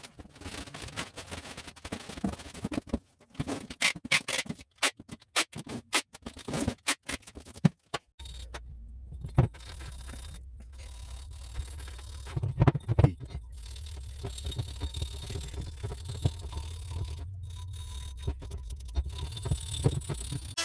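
Workshop tool work on metal parts: a series of short clicks and scrapes with abrupt gaps, then a steady low machine hum with occasional knocks.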